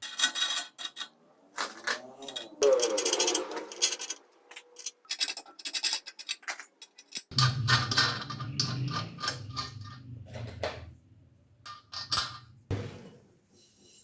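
Handling and assembly noises of metal parts: clicks, knocks and scraping. A low whirring runs for a few seconds in the middle.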